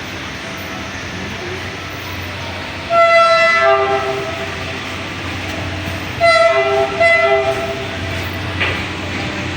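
Diesel train horn sounding a chord of several notes: one longer blast about three seconds in, then two short blasts in quick succession a few seconds later. A steady rumble of the train running lies underneath.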